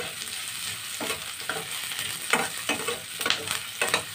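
Garlic, ginger and sliced onion sizzling in hot oil in a stainless steel pan, with a steady hiss under a metal spatula scraping and knocking against the pan several times as they are stirred.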